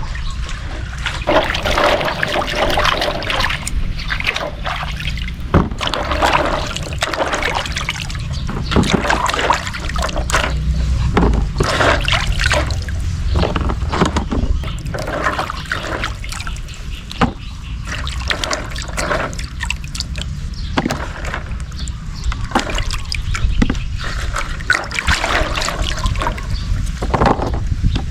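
Water sloshing and trickling, with irregular small splashes throughout.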